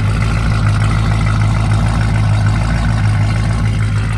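A performance car engine idling loudly with a heavy, choppy lope, the uneven idle of an aggressive camshaft.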